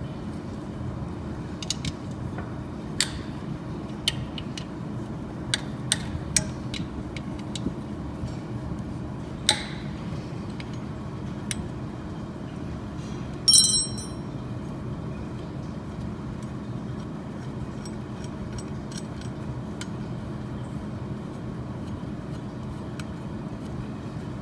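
Metal tools or parts clicking and tapping against each other over a steady low hum. About halfway through comes one loud ringing metallic clink.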